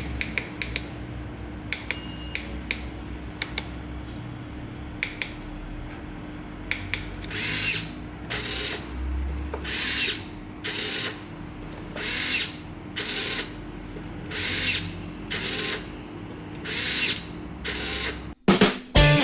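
Small mechanism clicking, then running in about eleven short, even bursts roughly a second apart over a steady low hum.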